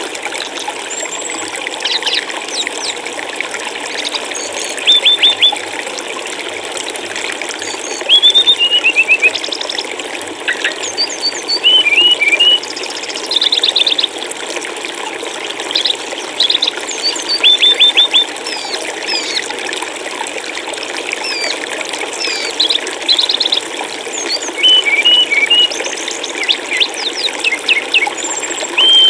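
Steady rush of flowing water with a small songbird singing over it. The bird gives frequent short phrases of quick chirps, trills and rapid repeated notes, which rise loudly above the water every few seconds.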